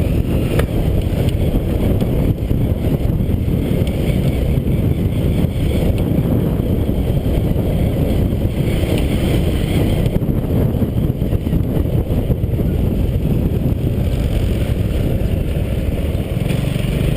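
Motorcycle running steadily on the move, with a loud low rumble and wind noise on the microphone.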